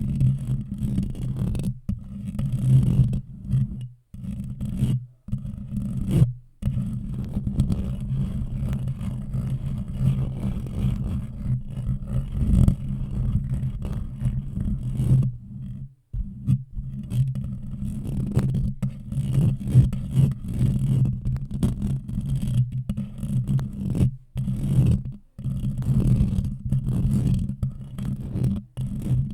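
Close-up scraping and rubbing on or right against a microphone, used as an ASMR trigger. It is a deep, continuous scratchy sound, broken by a few brief pauses.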